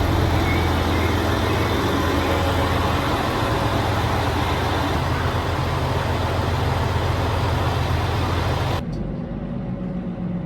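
Train running noise: a steady rumble with a strong low hum that cuts off abruptly about nine seconds in, leaving a quieter background.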